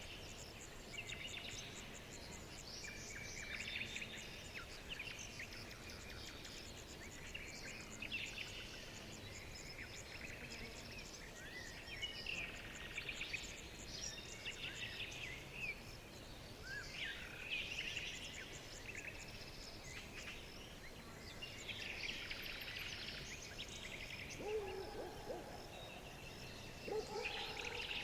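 Several songbirds chirping and trilling in overlapping bursts over a steady faint background hiss, with a lower-pitched call joining in near the end.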